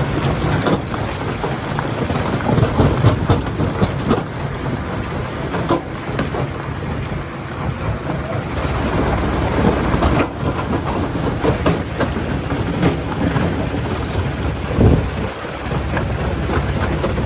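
Stone crusher at work: a heavy, continuous rumble with a dense clatter of knocks as rock is broken and tumbles through the machine.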